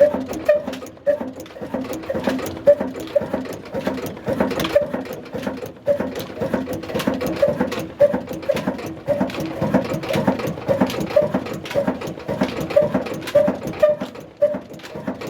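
Old single-cylinder 'black' diesel engine of about 35 hp running steadily, with an even, repeating beat about twice a second and mechanical clatter.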